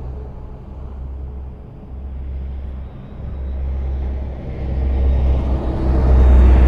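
Highway traffic: a deep, steady rumble of passing vehicles, with a few low engine tones running through it. It eases off for a moment about two seconds in, then swells louder as a vehicle draws near toward the end.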